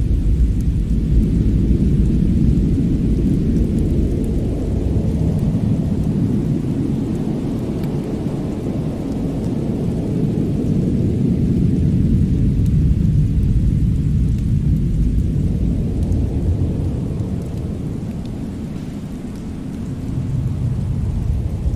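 Winter fireplace ambience: a steady low rumble that swells and eases over several seconds, with faint crackles of the fire on top.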